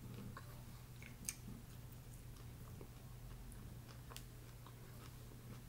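A person chewing food with the mouth closed, making soft wet smacks and small clicks over a low steady hum. A sharper click comes a little over a second in, and another around four seconds in.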